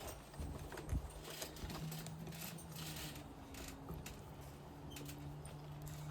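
Scattered light clicks and knocks of hand tools and small parts being handled during engine work, over a steady low hum.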